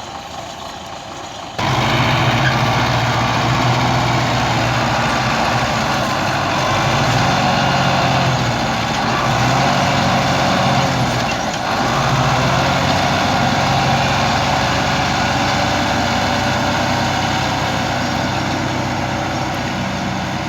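Tractor engine running, becoming suddenly louder about a second and a half in, its pitch dipping and rising a few times midway.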